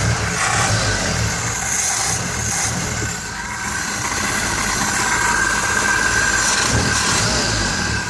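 Mercedes W110's M121 four-cylinder petrol engine running steadily at idle through a newly fitted exhaust.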